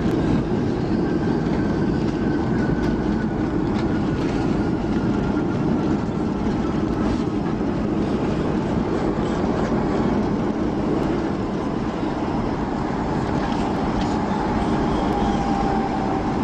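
Cabin noise inside a Boeing 757 during landing: the jet engines and airframe give a steady loud rumble. Over it, a thin engine whine slowly falls in pitch.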